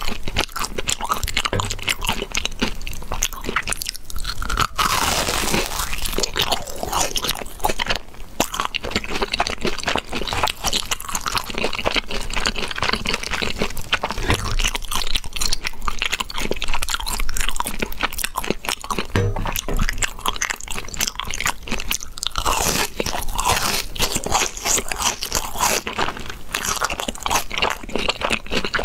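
A person biting into and chewing crisp, crumb-coated deep-fried balls with a soft white creamy filling, the coating crunching loudly and continuously.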